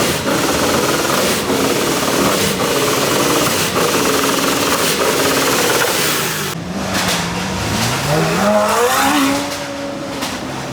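Loud car engine running hard, then revving up with rising pitch in the latter half.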